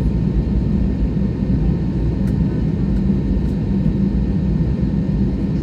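Steady low rumble of an airliner's cabin on the ground, its engines running at idle during the taxi, with a few faint steady tones above the rumble.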